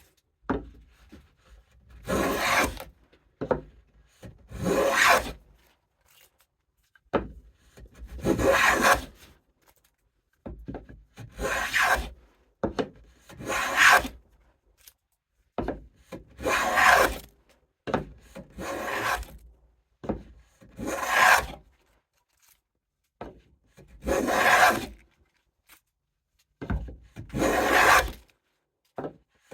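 Hand rabbet plane cutting a rabbet along the edge of oak panels: about a dozen separate rasping strokes, each about a second long, with short pauses and light knocks between them.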